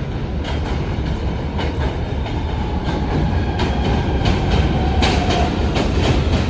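An R160 subway train with Siemens propulsion running close by, steadily growing louder. Its wheels click over the rail joints, and a motor whine drops in pitch about two-thirds of the way in.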